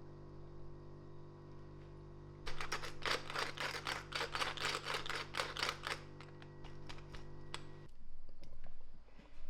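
A quick run of sharp taps, about five a second, lasting a few seconds, over a steady hum that cuts off abruptly near the end.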